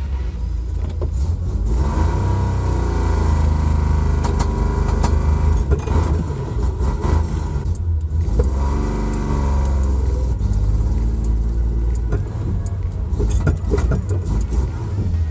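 Datsun 240Z's straight-six engine heard from inside the cabin while driving, its note climbing and falling a few times as it is revved. It spits and sputters, which the owner takes as the sign that it needs adjusting and tuning.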